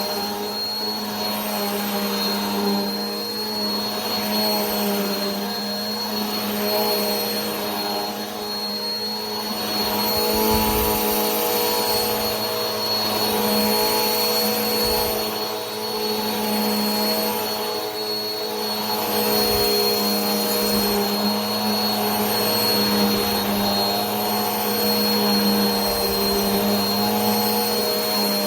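Vacuum cleaner running steadily: a rushing hiss of air with a high motor whine and a low hum, the loudness easing and swelling slightly every few seconds.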